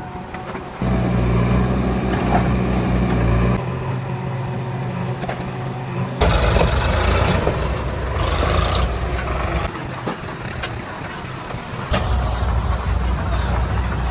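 Heavy diesel engine running with a steady low rumble, changing abruptly in loudness and tone several times.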